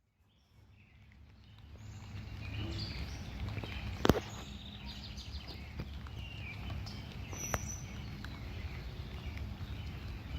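Outdoor dawn ambience: birds chirping over a steady low background rumble, with a sharp click about four seconds in.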